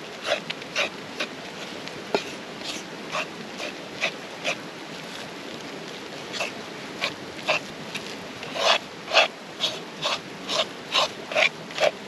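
Spoon stirring thick dumpling batter of flour, milk and melted butter in a bowl: a run of short, wet scraping strokes, denser and louder in the last few seconds.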